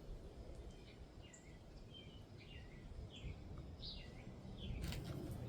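Faint bird chirps, a string of short calls rising and falling in pitch, over a low steady background hum, with a single sharp click near the end.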